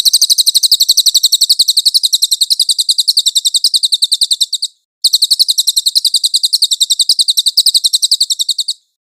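Songbird masteran (tutor song) recording: a rapid, very even trill of sharp, high chirps, about ten a second, in two bouts. The first breaks off about halfway through, and the second starts after a short pause and stops shortly before the end.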